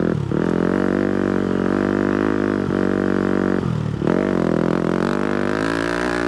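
Single-cylinder four-stroke 250cc motocross bike engine running under steady throttle. The revs dip and climb back twice, near the start and about two-thirds through, as the rider shifts or rolls off and back on the throttle.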